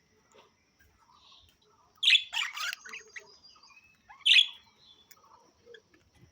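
Budgerigars chattering softly, then giving a loud burst of harsh chirps about two seconds in and one more sharp chirp just past four seconds.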